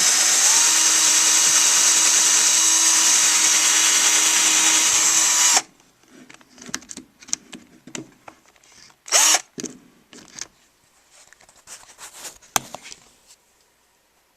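Electric drill running steadily with a high whine while drilling a hole for a bird's perch in juniper wood, cutting off suddenly about five and a half seconds in. After it come scattered light clicks and knocks.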